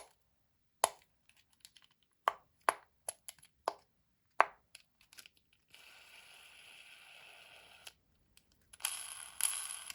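Plastic candy toy packaging being handled: a string of sharp plastic clicks and snaps, then a soft steady rustle, and louder crinkling of wrapper near the end.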